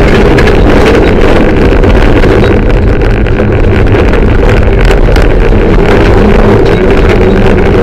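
Mitsubishi Lancer Evolution III's turbocharged 2.0-litre four-cylinder engine running hard at high, near-steady revs, heard loud from inside the cabin.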